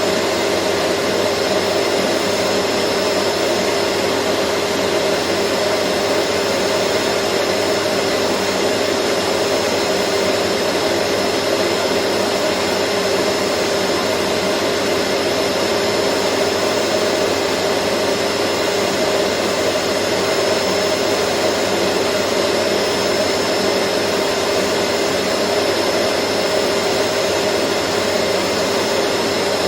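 Vacuum cleaner running steadily: a constant rushing hum with a thin, steady high whine on top.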